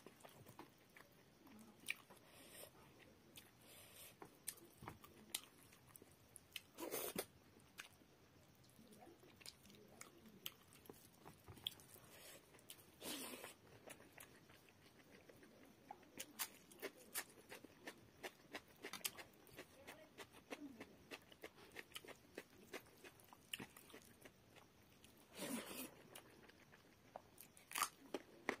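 Close-miked eating sounds: chewing and wet mouth clicks from a person eating rice and fish curry by hand, along with fingers squishing and mixing the rice on the plate. Many short clicks throughout, with a few louder bursts spread across the stretch.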